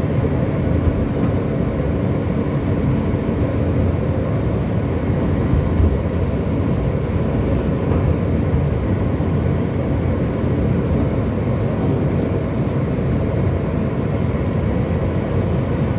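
Moving train heard from inside the car: a steady rumble of wheels on the rails, with a faint low hum that fades out about four seconds in.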